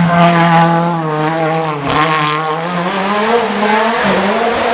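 Hill-climb race car's engine running hard at high revs. Its pitch dips briefly about two seconds in, then rises steadily again.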